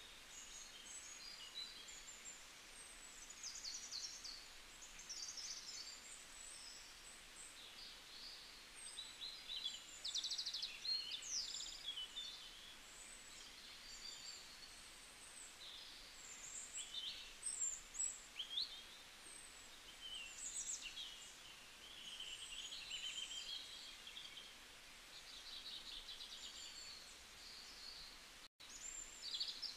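Small birds chirping and twittering, a steady stream of short high calls and quick trills, faint over a low background hiss.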